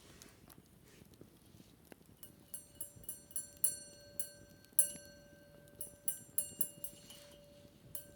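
Irregular light tapping on a hard object that rings with a clear, sustained note, about a dozen strikes starting a couple of seconds in.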